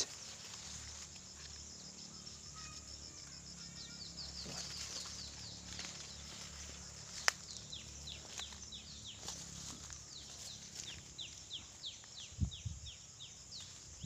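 A small bird calling a run of short, high, downward-sliding chirps that come closer together, about three a second, in the last few seconds. A steady high insect hum sounds at first, and there are a couple of low thuds near the end.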